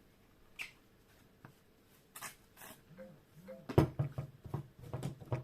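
Kitchenware being handled: scattered light taps and knocks with a couple of brief rustles, turning into a busier run of knocks near the end.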